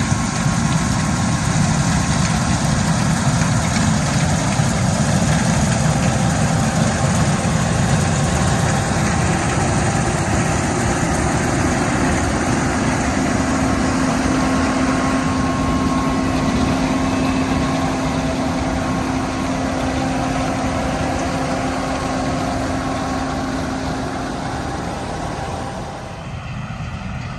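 Heavy farm machinery engine running steadily, with a steady hum coming in about halfway through and the sound easing off slightly near the end.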